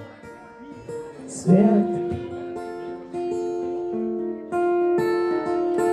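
Acoustic guitar strumming and picking chords, with a voice singing one held word about a second and a half in.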